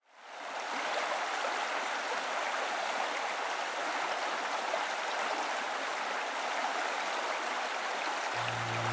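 Steady rushing noise like running water, fading in over the first second; a low steady hum comes in near the end.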